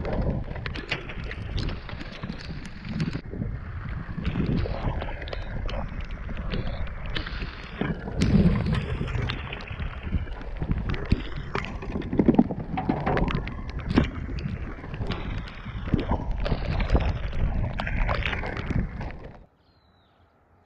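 Muffled, gurgling noise from a rain-drowned GoPro microphone, with wind buffeting and many irregular knocks and clatters. It cuts off suddenly near the end.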